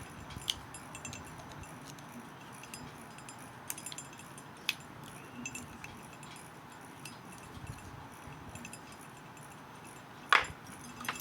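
Faint small metallic clicks and scrapes of a screwdriver tightening tiny screws into a model locomotive's frame, with a sharper click near the end.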